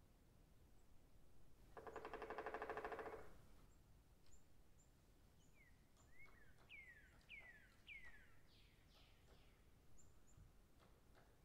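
Faint forest birdsong: a run of quick whistled notes, each sliding downward, with thin high chips here and there. A brief pulsing buzz comes about two seconds in.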